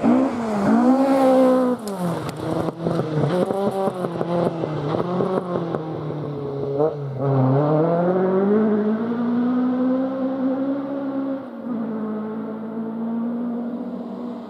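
Rally car engine working hard on a gravel stage, the revs rising and falling with the throttle and gears, with a run of sharp cracks early on. About halfway the revs drop low, then climb steadily before a gear change drops them again.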